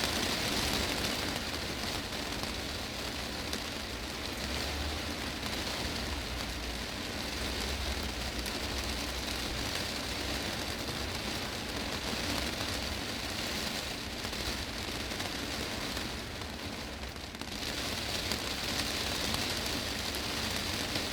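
Heavy rain falling on a greenhouse's glass roof: a dense, steady hiss of drops that thins briefly for about a second late on.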